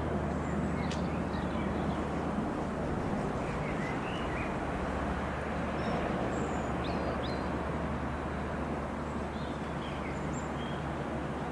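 Twin Otter's twin turboprop engines droning low and steady over a broad rumble, the drone fading away after about three seconds as the aircraft moves off. Small birds chirp here and there throughout.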